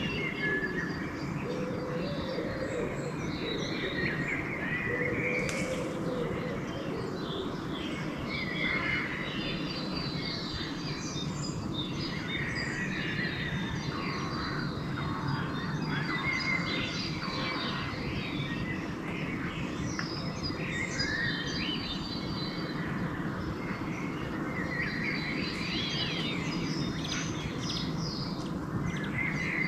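Dawn chorus of several songbirds, with many short chirps and song phrases overlapping throughout, over a steady low background rumble.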